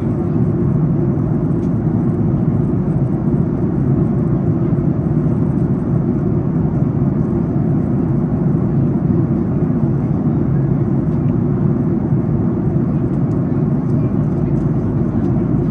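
Steady cabin noise of a Boeing 737 MAX 8 airliner in descent: a constant low rush of airflow and engine noise with no change in level.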